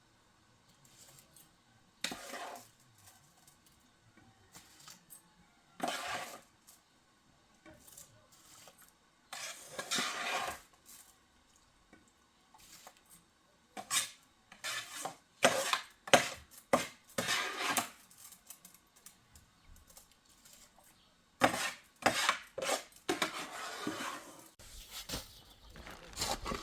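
Irregular scraping and clinking of hard objects, single strokes at first and then quick runs of them, with quiet gaps between.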